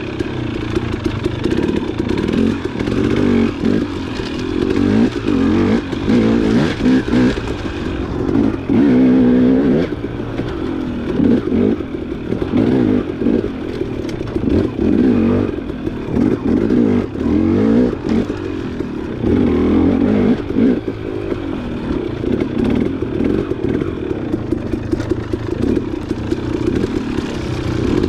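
Dirt bike engine revving up and down as the throttle is worked, its pitch rising and falling every second or two.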